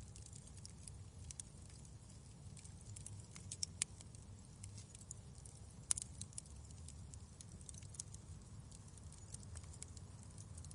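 Wood fire crackling, with irregular sharp pops and snaps, the loudest about four and six seconds in, over a low steady rumble.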